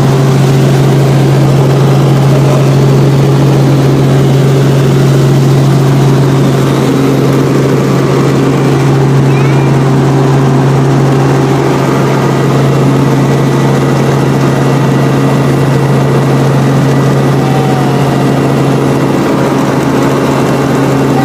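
Helicopter's engine and rotor running in flight, a loud steady drone with a deep hum that holds level throughout.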